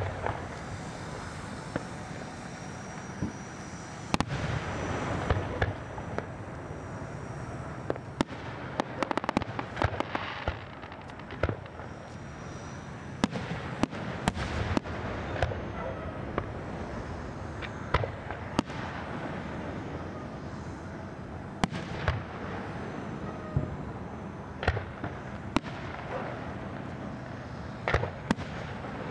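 Aerial fireworks shells bursting: sharp bangs scattered irregularly, some in quick pairs, with stretches of crackle between.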